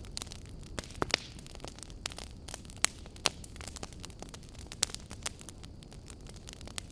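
Campfire burning, with a steady low rumble and irregular sharp crackles and pops from the burning wood, a few louder snaps among them.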